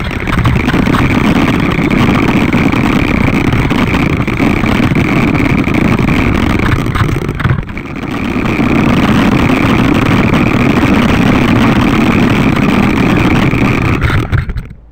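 Small 1/10-scale remote-control motorcycle running at speed: a loud, steady motor and rolling noise that dips briefly about halfway through, then carries on and cuts off at the end.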